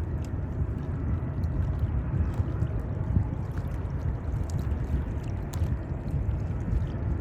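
Low, fluctuating rumble of wind buffeting the microphone, with no distinct engine tone.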